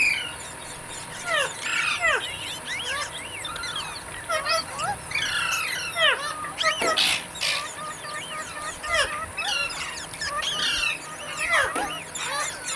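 Green parrots chirping: a quick, continuous run of short rising and falling calls, several overlapping at once, over a steady high hiss.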